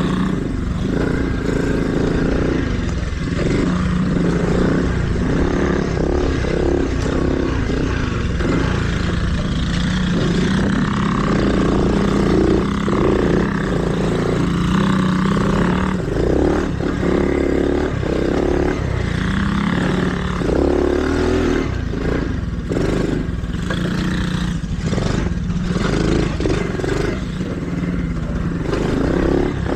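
Mini dirt bike engine running as the bike is ridden along a trail, revving up and dropping back again and again, with rattling clatter over the rough ground.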